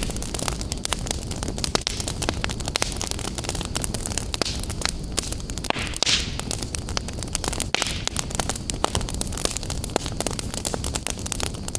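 Wood fire burning in a fireplace: dense, irregular crackles and pops over a steady low rumble, with brief hissing flare-ups about halfway through.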